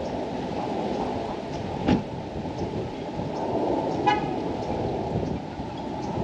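Wind buffeting the microphone with a steady low rumble. About four seconds in there is one short, high-pitched toot, and a single knock comes near two seconds in.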